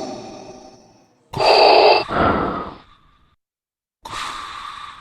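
Darth Vader–style respirator breathing: a hissing mechanical breath in and out about a second in, then another breath starting about four seconds in.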